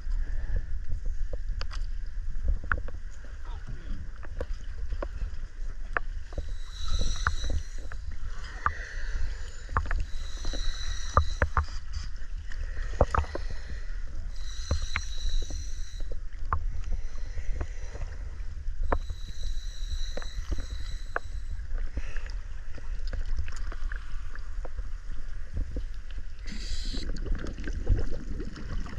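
Dive boat rumbling low and steady, with scattered knocks and clatter of gear on deck and several short high hisses lasting a second or two each.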